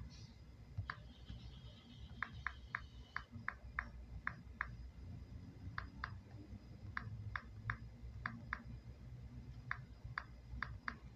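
Faint, light clicking at a computer, single clicks and quick runs of two to four with pauses between, over a steady low hum.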